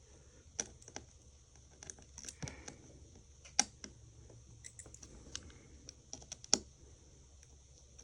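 Small tool clicking and tapping irregularly against an iPhone 5's internal parts while a motherboard standoff screw is worked loose without a standoff screwdriver, with two sharper clicks about three and a half and six and a half seconds in.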